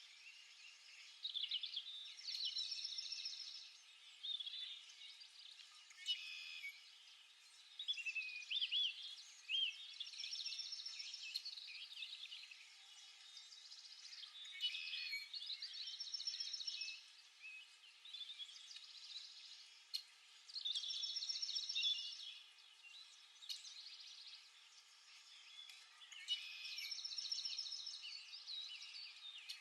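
Small songbirds singing and chirping: a trilled song phrase comes back every five or six seconds, with short chirps in between.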